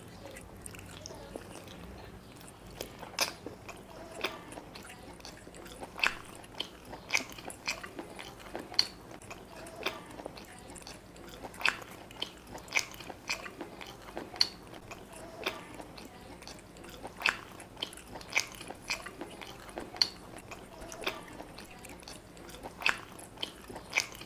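Close-miked wet chewing of chicken curry and biryani rice, with sharp mouth smacks and clicks at irregular intervals, about one or two a second.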